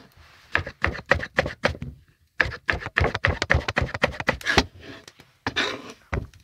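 Kitchen knife chopping vegetables on a cutting board: quick, even knocks, about five or six a second, in two runs with a short pause between them.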